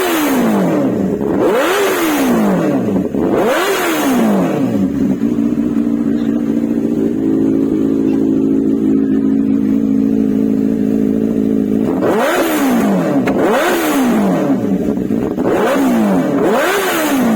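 Benelli TNT 600's inline-four engine revved in quick throttle blips, each rising sharply and falling back. Three blips come in a row, then it settles to a steady idle for about seven seconds, and a run of four more blips follows near the end.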